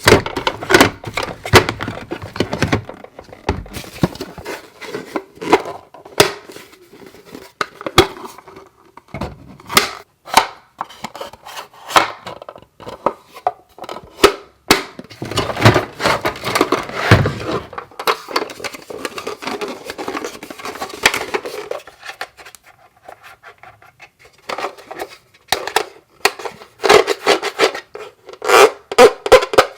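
Toy kitchen set pieces and play food being handled: a long string of light clicks, taps and scrapes, with a couple of short pauses.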